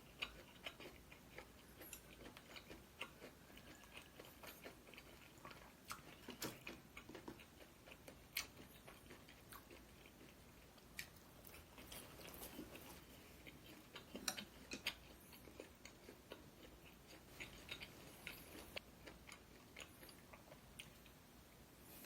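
A person chewing food at close range, with many small irregular mouth clicks and a few sharper clicks and crunches.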